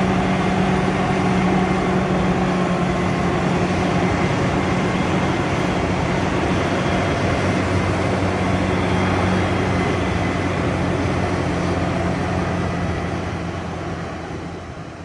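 Heavy farm machinery's diesel engine running steadily with a constant low hum, fading out over the last few seconds.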